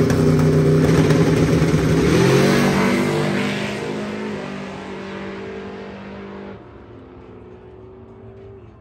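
Drag-racing truck engine at full throttle down the strip, loud and steady, its pitch rising about two seconds in, then fading over the next few seconds as it pulls away.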